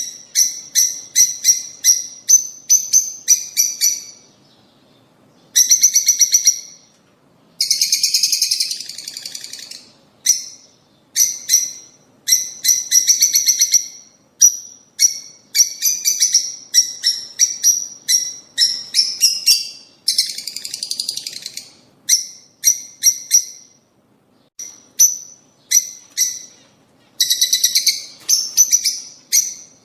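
Lovebirds chirping in rapid runs of short, high-pitched notes. Now and then a denser stretch of chattering breaks in, and there are brief pauses between runs.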